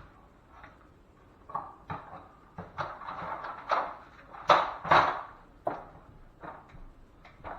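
Drywall taping knife scraping over setting joint compound in a series of short strokes, the loudest about four and a half and five seconds in.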